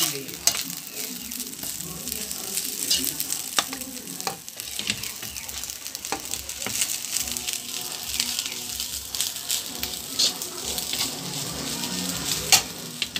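Fried rice sizzling in a nonstick pan as a metal spatula stirs and scrapes it. Sharp clicks of the spatula striking the pan come throughout, the loudest near the end.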